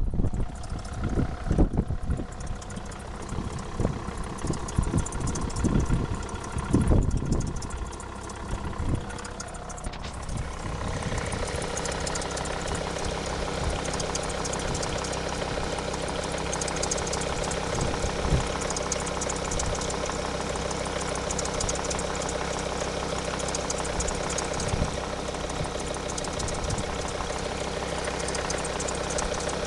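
Volvo D5 five-cylinder diesel engine running at a steady idle, with a noise the uploader puts down to the auxiliary belt. For about the first ten seconds there are irregular low thumps and rumbles, then the running sound settles steady and even.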